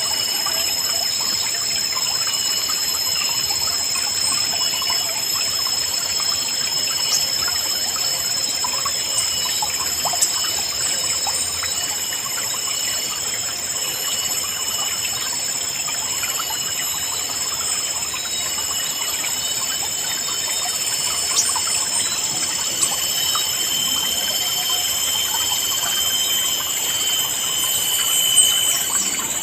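A shallow river babbling and trickling steadily, with birds chirping softly now and then over a steady high-pitched ringing.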